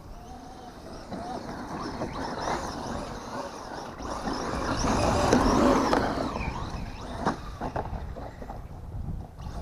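Traxxas Ford Fiesta ST VXL 1/10 rally RC car running on 6S: its brushless motor whines, rising and falling in pitch with the throttle. Tyre noise swells to its loudest about five to six seconds in as the car passes close, with a few sharp clicks near the end and wind rumbling on the microphone.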